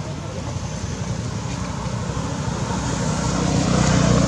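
A road vehicle's engine passing close, its rumble growing louder to a peak near the end.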